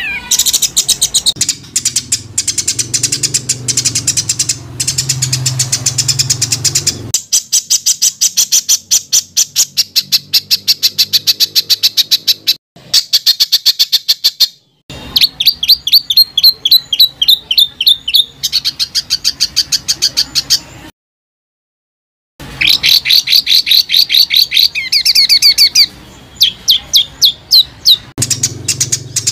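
A songbird singing long, dense runs of sharp, rapidly repeated high notes, many a second, in several phrases with a clean break about three-quarters of the way through.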